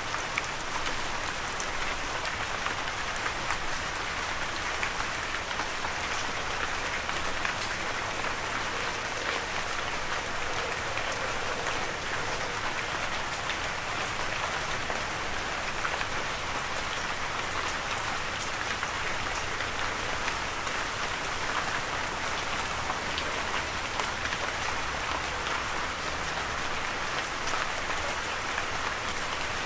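Steady rain falling on a surface, a constant hiss with scattered individual drop ticks, no thunder.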